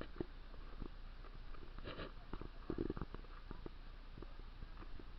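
Footsteps and soft irregular knocks and rustles while walking along a dirt trail, over a steady faint hiss.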